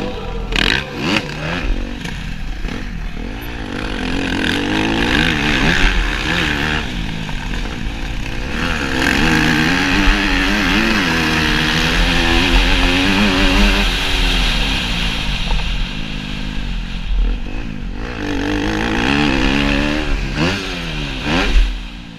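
Motocross bike engine revving up and down again and again as it is ridden, over a steady rushing noise, with scraping and clattering.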